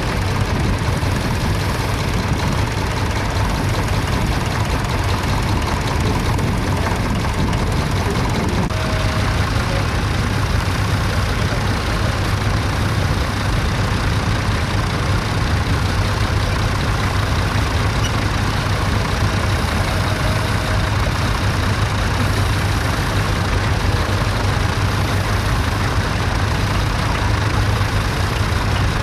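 Tractor engine running steadily at a constant low pitch.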